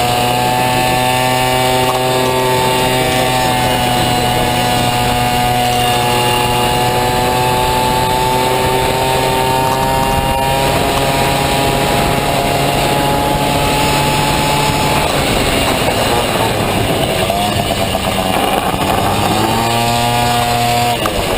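Honda Dio two-stroke scooter engine running hard at high revs under racing load, its pitch climbing slowly through the first half, then wavering, with a short drop in revs near the end before it picks up again.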